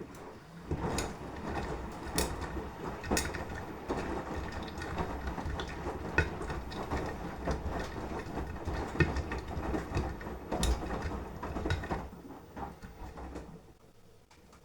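Beko washing machine drum turning in the wash phase, laundry tumbling and sloshing in the water with irregular clicks and knocks. The tumbling stops about 13 seconds in as the drum pauses.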